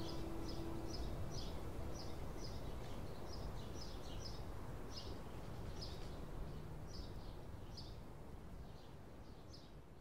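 Outdoor ambience of a bird chirping over and over, short high chirps about twice a second, over a steady low rumble. A lingering musical note dies away in the first second or so, and the whole sound fades out near the end.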